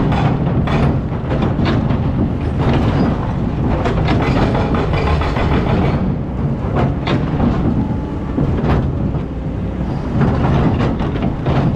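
Excavator running steadily with a heavy low rumble, overlaid by frequent metallic clanks and knocks.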